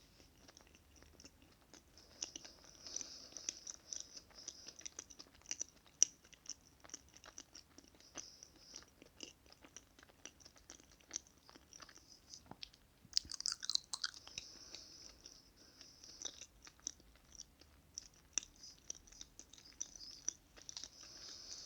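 Close-miked chewing of soft chocolate cake: wet, sticky mouth sounds with many small clicks and smacks. A louder cluster of clicks comes about thirteen seconds in.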